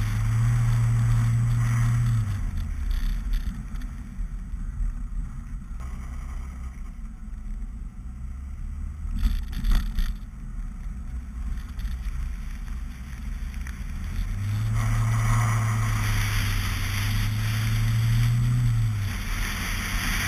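Mazda Miata's four-cylinder engine running at steady revs under throttle with a low drone, easing off after about two seconds and pulling again from about fourteen seconds in. A couple of sharp knocks just under ten seconds in.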